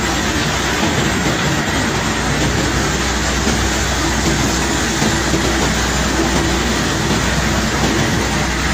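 Heavy unloading machinery running steadily, a continuous low rumble and hum with a dense rattle and no separate impacts.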